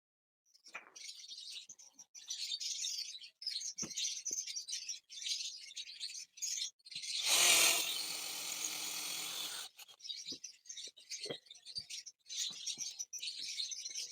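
Small birds chirping and chattering in quick, high twitters throughout. About seven seconds in, a loud rasping, rubbing noise lasts a little over two seconds, louder than the birds.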